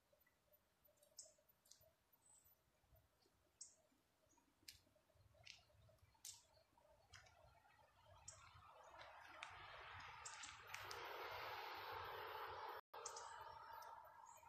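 Faint, scattered clicks and chirps over near silence. Then, from about eight seconds in, a rising rush of noise builds as a train approaches the level crossing while its warning is active.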